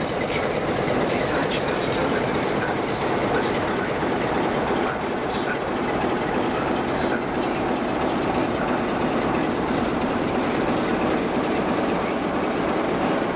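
A passenger train of coaches rolling past close by: a steady rumble of wheels on rail with light clickety-clack. The class 47 diesel locomotive 47802 on the end of the train passes about halfway through, with no change in the sound.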